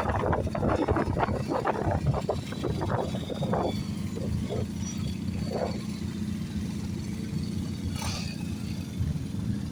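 Motorcycle engines running, a steady low rumble, with a flurry of irregular louder sounds over the first three or four seconds and a few single ones later.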